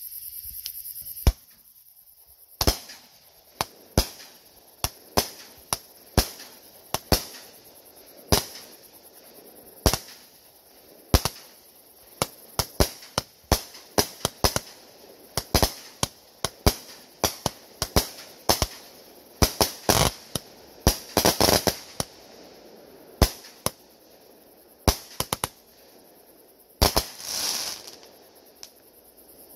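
Consumer fireworks going off in a rapid series of sharp bangs, dozens of them, as aerial shells burst overhead. A dense flurry of cracks comes a little past the middle, and a longer hissing, crackling burst near the end.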